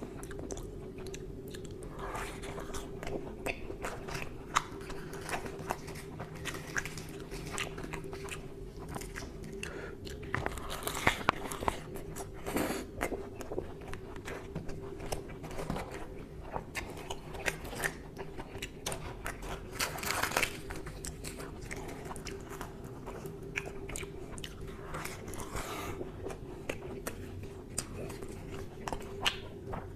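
Close-miked eating: chewing and biting mouthfuls of mutton curry wrapped in fried luchi, with wet, crackly mouth sounds and a few louder bursts of chewing. A steady low hum runs underneath.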